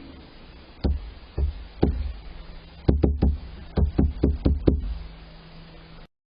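A series of about ten sharp knocks, irregularly spaced and some in quick pairs, over a steady low background hum. The sound cuts off suddenly near the end.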